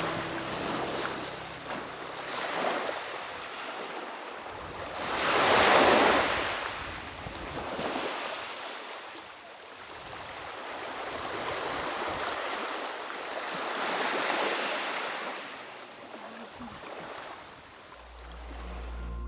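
Sea waves washing onto the shore in slow surges, each swell rising and falling away, the biggest about five seconds in. Music fades in near the end.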